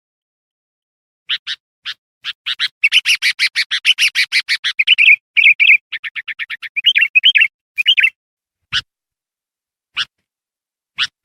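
Kutilang (bulbul) song played as a lure call for wild kutilang: after about a second of silence comes a fast run of sharp chirps, densest in the middle. Near the end there are a few single short, sharp sounds about a second apart.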